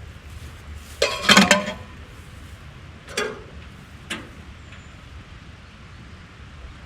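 A quick rattle of clinks about a second in, then two single sharper clinks a couple of seconds later, like metal parts knocked together.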